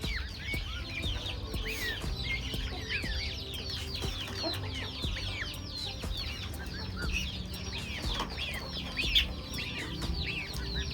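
A flock of chickens calling: many overlapping short, high chirps and peeps with clucking, one call a little louder about nine seconds in, over a low rumble.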